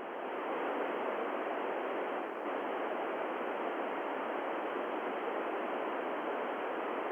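Steady static hiss from a ham radio transceiver's speaker, an ICOM IC-9700 with its squelch open on the satellite downlink, confined to a narrow voice-radio band. It fades up quickly just before it settles and then holds even.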